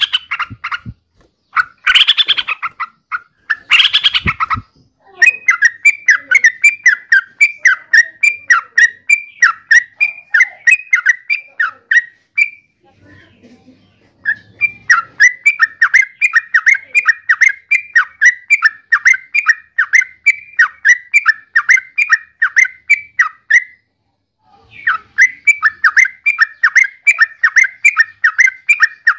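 Yellow-vented bulbul calling: two loud, harsh calls a couple of seconds apart near the start, then long runs of quick, repeated chattering notes, about four a second, broken by two short pauses.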